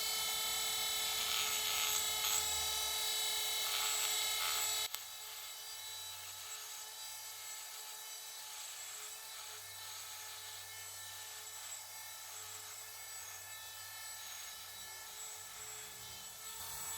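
Dremel rotary tool whining at high speed as it grinds down the edge of a bicycle hub where the brake disc rubs. About five seconds in it drops suddenly to a quieter, steady whine.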